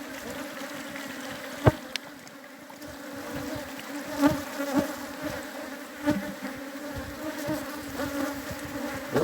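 A colony of honeybees buzzing steadily around an open hive, with a few sharp knocks scattered through it.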